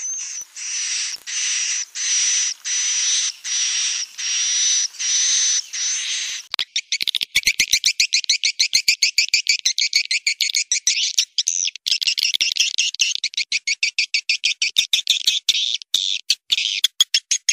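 Swiftlet calls: a run of about eight buzzy chirps, each about half a second long, then from about six and a half seconds a fast chattering twitter of rapid clicks. This is the call sound played to lure swiftlets to nest.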